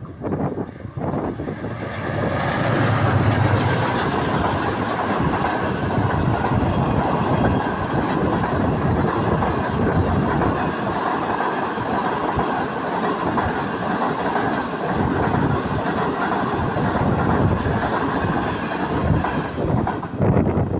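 Pakistan Railways passenger train running past, its coach wheels clattering over the rail joints in a steady, loud rush. The sound swells about two seconds in and holds.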